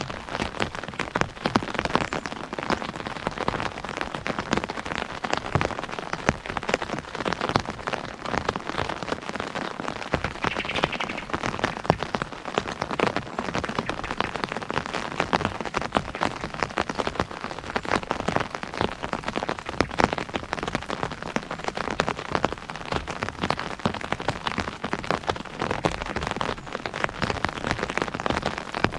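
Steady rain pattering on an umbrella, a dense stream of individual drops tapping on the canopy.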